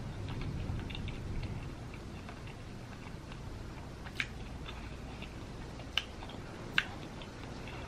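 A person chewing a mouthful of food with lips closed, soft and steady, fading after the first second or so; three short sharp mouth clicks come later, about four, six and seven seconds in.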